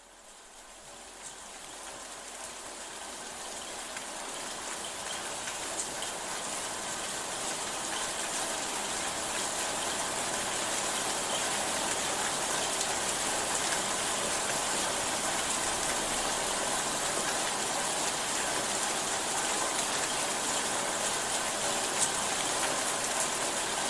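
Steady hiss of falling water, like rain, fading in over the first several seconds, with a few faint ticks.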